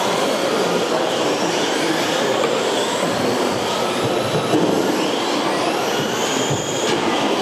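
Several electric RC off-road trucks racing together, their motors whining up and down in pitch as they accelerate and brake, over a steady rush of tyres on the track.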